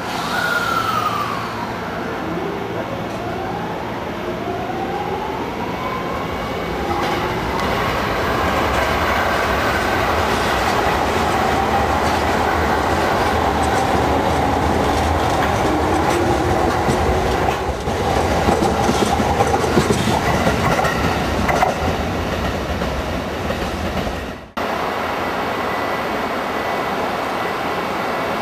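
JR East 209 series electric train running through a station: motor whine gliding up in pitch over the first few seconds, then steady running noise with wheels on the rails. The sound breaks off abruptly about 24 seconds in and resumes as steady running noise.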